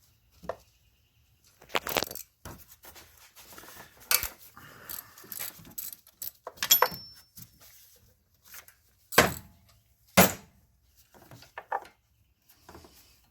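Metal hand tools clinking and clanking in irregular knocks and rattles as a socket wrench works on the second alternator mounting bolt, with the loudest clanks about two seconds in and twice near the end.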